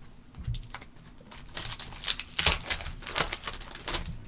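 Panini Optic basketball hobby pack being torn open, its wrapper crinkling in a dense run of crackles from about a second and a half in until near the end.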